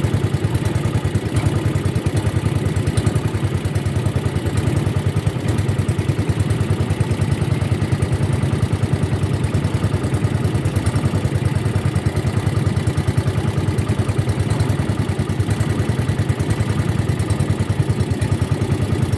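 Boat engine running at a steady speed throughout, with an even, rapid pulse.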